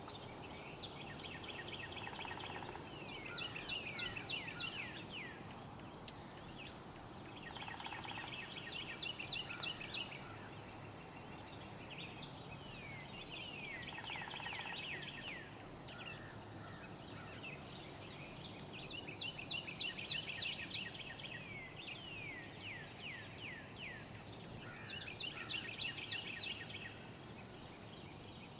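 A steady, high-pitched insect trill, with a songbird singing short phrases of quick downward-slurred notes over it about every six seconds.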